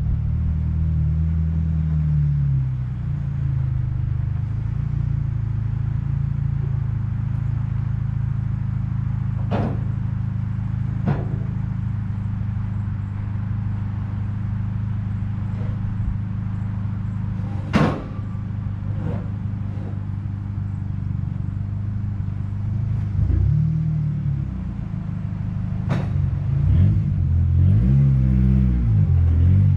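Truck engine running steadily, its pitch rising and falling near the start and again near the end, with a few sharp clicks and knocks.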